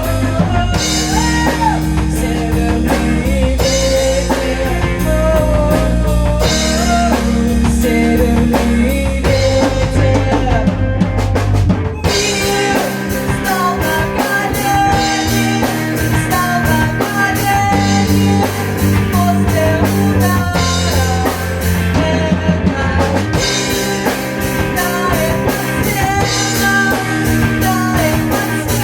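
Rock music with drum kit, bass and guitar, loud and continuous; the bass part changes about twelve seconds in.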